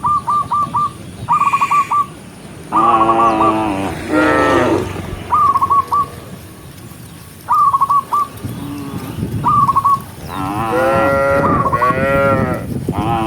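Cattle mooing: several long, deep calls from different cows, overlapping near the end. Short high trills repeat about every two seconds between them.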